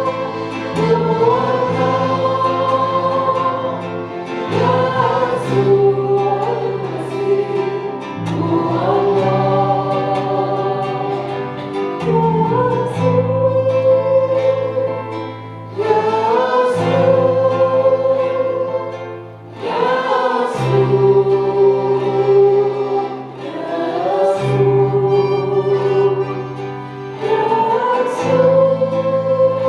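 Worship song sung by a group of voices with instrumental accompaniment, sustained sung lines over steady bass notes that change every few seconds.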